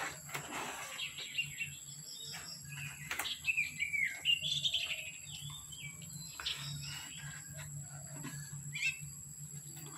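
Small birds chirping and twittering in short, quick rising-and-falling calls, busiest between about three and five seconds in.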